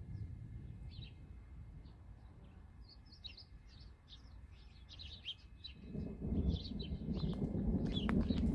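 Small birds chirping and twittering in quick short calls. A low rumbling noise swells up from about six seconds in and becomes the loudest sound by the end.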